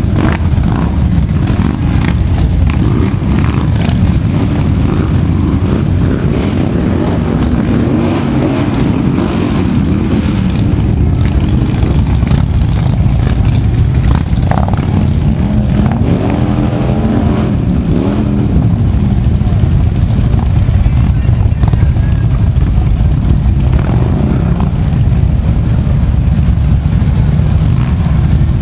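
Motorcycle engines running at low speed, with one engine's pitch rising and falling about two-thirds of the way through.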